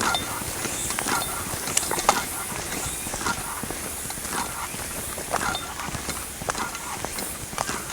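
Irregular knocks and clatter, a few a second, over a steady high-pitched hiss.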